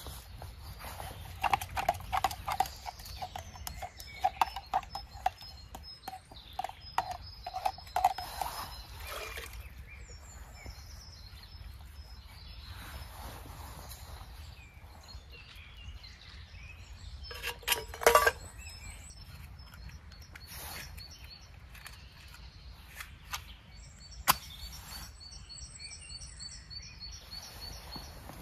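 Irregular knocks and clinks for several seconds near the start, a louder clatter about two-thirds of the way in, and a sharp click a little later, with birds chirping in the background.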